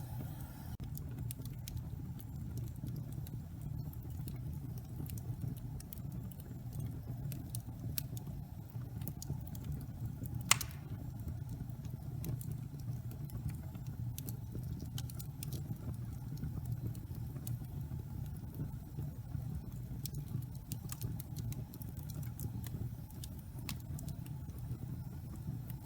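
Wood fire burning in a fireplace: a steady low rumble with frequent small crackles and one loud pop about ten seconds in.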